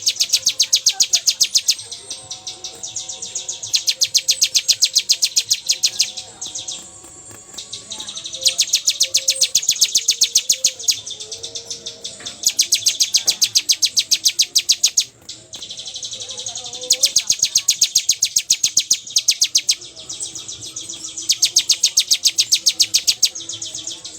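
Bar-winged prinia (ciblek) singing: loud trains of rapid, sharp, high repeated notes, each about two seconds long, repeated about every four seconds.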